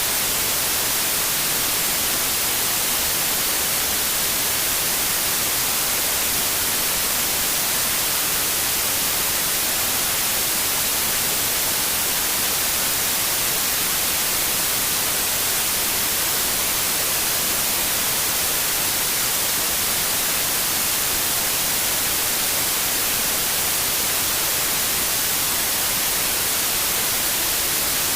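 Steady, unchanging white noise: an even hiss, brightest in the treble.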